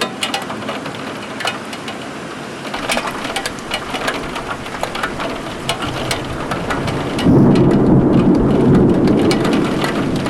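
Heavy thunderstorm rain hissing steadily, with many close raindrops ticking sharply. About seven seconds in, a loud rumble of thunder sets in and keeps rolling.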